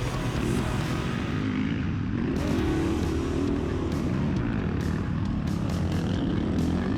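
Honda CRF450RX motocross bike's single-cylinder four-stroke engine revving up and down as the bike is ridden, its pitch rising and falling over and over.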